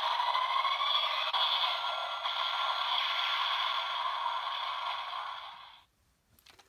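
Electronic finishing-attack sound effect from a Bandai DX Attach Shotgun toy with the Assault Wolf Progrise Key inserted: a long, noisy blast played through the toy's small, tinny speaker, dying away about six seconds in. A few faint clicks follow.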